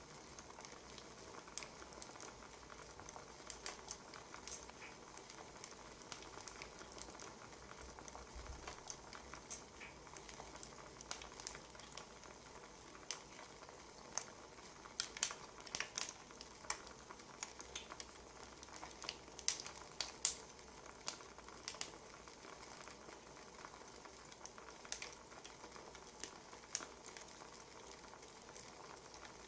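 Wood fire crackling: irregular sharp pops and snaps over a steady low hiss, busiest about halfway through.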